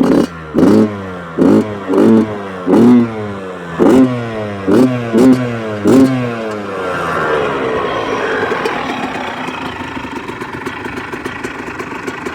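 2005 Yamaha YZ85's 85cc two-stroke single-cylinder engine, warmed up, blipped sharply about eight times in quick succession, each rev falling straight back, then settling to a steady idle for the last several seconds. The revs are given to show a healthy engine after its cold start.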